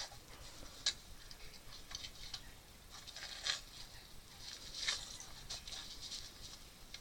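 Faint handling noise: scattered light clicks and scraping rustles, with a sharper click about a second in and a few more around the middle.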